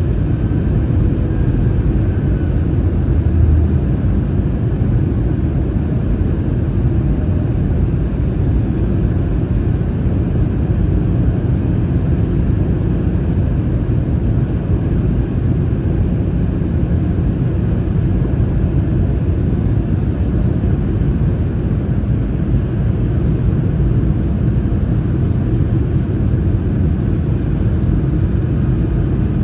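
Steady low rumble inside the cabin of an Airbus A319 in flight: its CFM56 jet engines and the airflow over the fuselage, with no change throughout.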